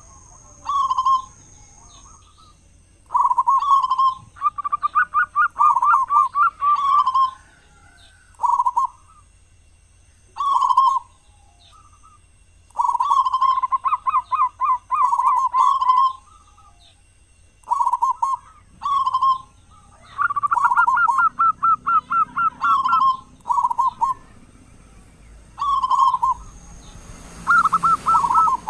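Zebra dove (perkutut) cooing over and over. Each phrase is a few short coos and quick stuttering trills, all near the same pitch, with pauses between phrases. A faint steady high whine runs underneath, and a short rush of noise comes near the end.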